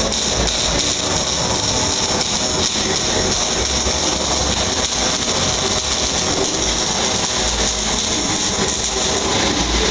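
Pulsed MIG/MAG welding arc from a Panasonic welding robot: a continuous, loud, even crackling buzz.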